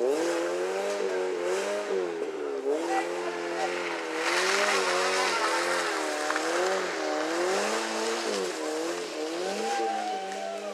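Rally car engine revving hard, its pitch climbing and dropping back again and again. About four to five seconds in, a rush of noise rises over the engine.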